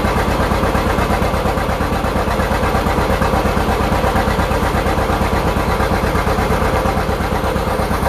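1954 John Deere 60's two-cylinder engine running steadily, with an even, fast popping beat that does not change.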